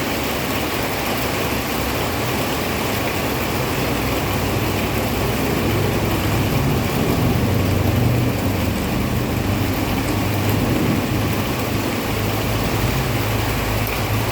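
Heavy rain falling in a steady hiss, with a low rumble underneath that grows louder about halfway through.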